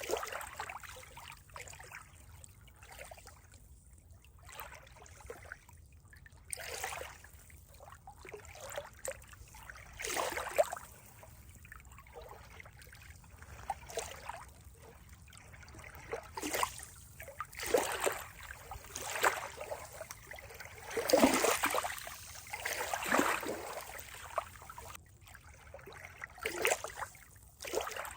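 Water trickling and gurgling in irregular surges and small splashes, with the biggest surges about three-quarters of the way through.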